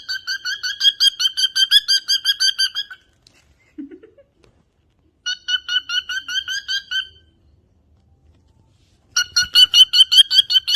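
A bird calling in fast runs of identical short chirps, about seven a second, in three bursts with pauses between them: a long run at first, a shorter one about five seconds in, and another near the end.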